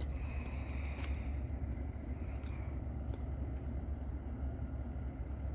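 Low, steady rumble of an approaching Norfolk Southern intermodal freight train, its diesel locomotives still at a distance.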